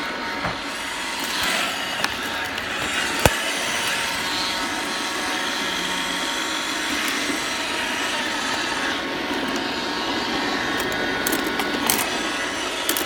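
iRobot Roomba robot vacuum running, a steady motor and brush noise, with a few sharp clicks, the loudest about three seconds in and several near the end.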